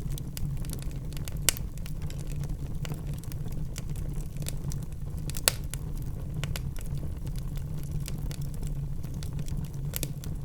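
Wood fire burning in a fireplace: a steady low rumble of flames with scattered crackles and sharp pops from the logs, two of them louder, about a second and a half in and again midway.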